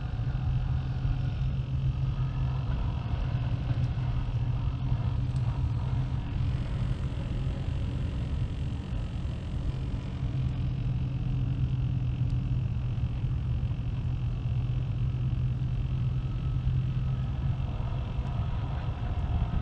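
Distant industrial machinery running with a steady low drone and hum.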